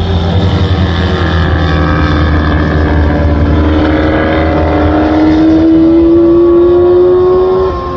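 Motorcycle engine pulling under throttle. A steady low rumble gives way to a rising engine note that climbs for several seconds, then drops suddenly near the end as the throttle is rolled off or a gear is changed.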